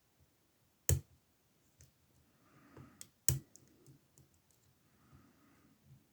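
Lock pick and tension tool working the pins of an older Ruko oval cylinder: two sharp metallic clicks about a second in and just past three seconds, with lighter ticks and faint scraping between them.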